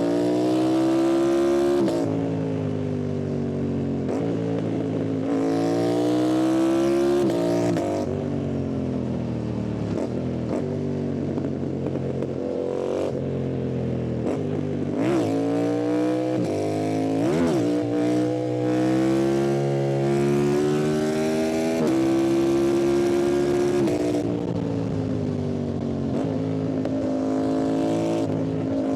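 Yamaha MT-07's parallel-twin engine and exhaust while riding, the revs climbing and falling again and again through gear changes. A little past halfway the revs give one quick sharp blip.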